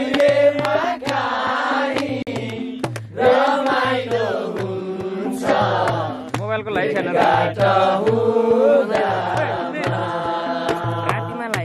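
Nepali folk song: voices singing a wavering melody over a steady, repeating drum beat.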